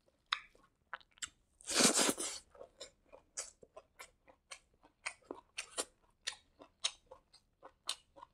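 Close-miked chewing of hand-fed fried rice: a string of short, irregular wet mouth clicks and smacks, with one louder crunch about two seconds in.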